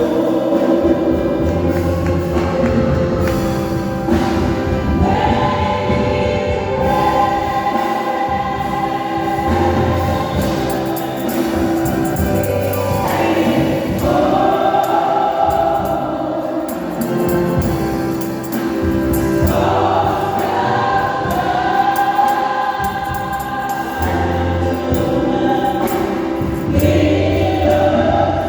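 Church choir singing a gospel song in several parts, with instrumental accompaniment and a steady bass line.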